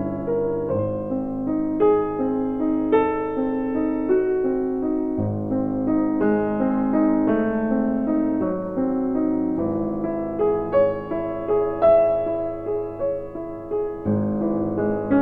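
Background piano music, a steady run of notes at a moderate tempo.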